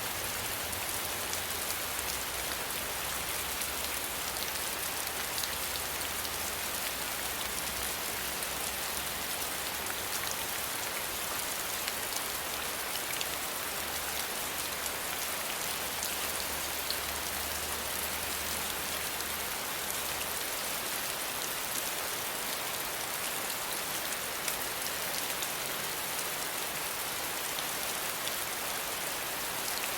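Steady rain falling, a dense even hiss with many small drop ticks, over a faint low rumble that fades out about two-thirds of the way through.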